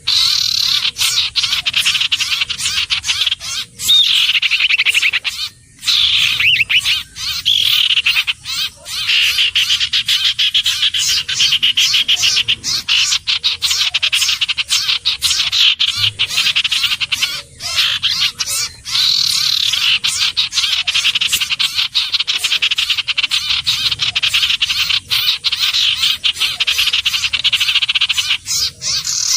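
Iora calling continuously in fast, high-pitched trills, broken by a few brief pauses.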